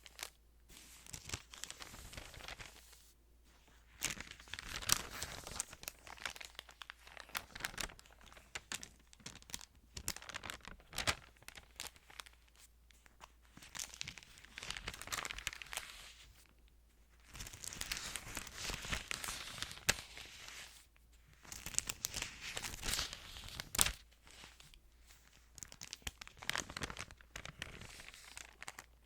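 Thin Bible pages rustling and crinkling as they are handled and turned, in irregular bursts with short pauses, with sharp little clicks among them.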